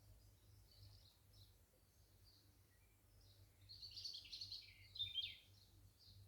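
Garden birds singing faintly: scattered short chirps, with a louder, denser burst of song about halfway through.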